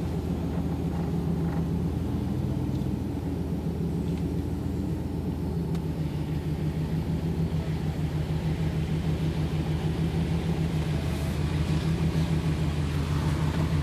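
Vehicle engine running at a steady low speed, a constant low hum heard from inside the cab as it drives slowly.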